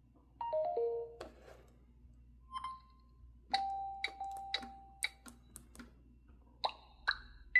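Samsung Galaxy A36 speaker playing short electronic chimes: a descending three-note chime about half a second in, a single beep a couple of seconds later, then a held tone broken by a run of sharp clicks, and two more short tones near the end.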